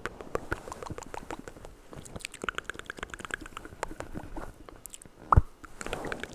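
Close-miked ASMR mouth sounds: a dense run of quick, wet clicks and smacks, with one much louder low thump a little past five seconds in.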